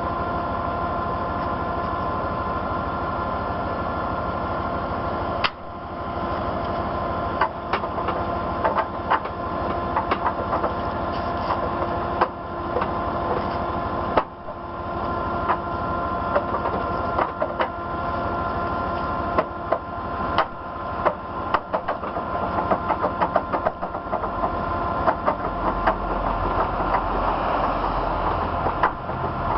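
Heavy diesel tow truck's engine running steadily with a whine of fixed tones over it. From about five seconds in, a long series of short, sharp metallic knocks and clanks comes and goes.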